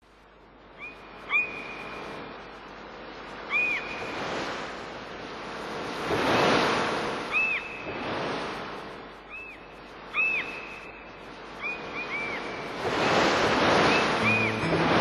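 Waves washing in slow swells, with short, high, arched whistled bird calls repeated through it, some of them in quick pairs. Musical notes come in near the end.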